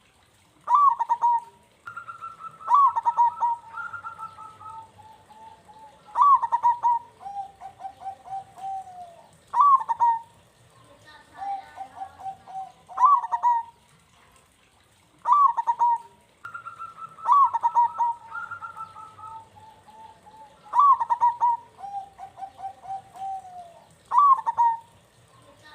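Zebra dove (perkutut) cooing in repeated song phrases about every three seconds. Each phrase opens with a loud, sharp note and trails off into a quick run of softer, stuttering coos.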